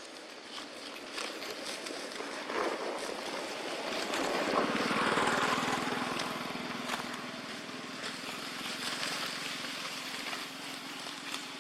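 A motor vehicle passing, its engine noise swelling to a peak about five seconds in and then fading.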